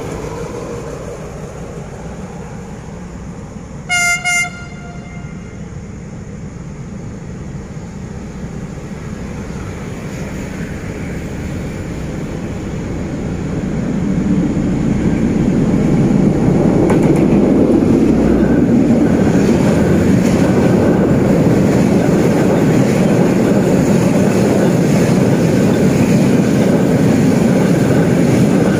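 A D20E diesel-electric locomotive gives two short horn toots about four seconds in as it approaches. Its running noise then grows from about fourteen seconds into a loud, steady rumble as the locomotive and its container wagons pass close by over a steel truss bridge.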